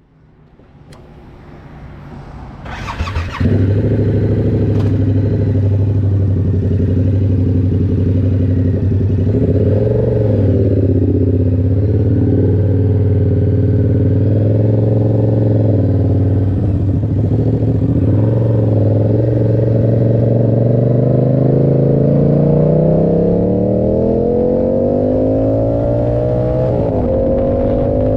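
Yamaha R7's 689 cc parallel-twin engine through an SC-Project aftermarket exhaust, starting up about three seconds in and then idling steadily. Near the end the revs climb smoothly as the bike accelerates.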